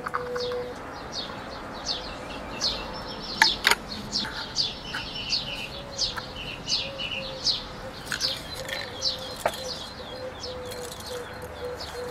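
Small birds chirping steadily in short, high, down-slurred notes several times a second, with a few sharp clicks in between.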